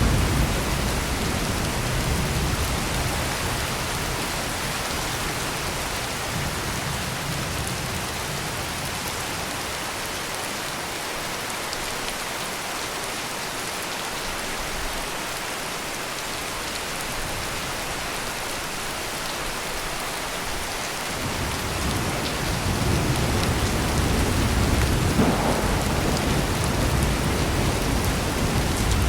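Heavy rain pouring steadily, with low rolling thunder fading away in the first few seconds and another roll of thunder building about two-thirds of the way through.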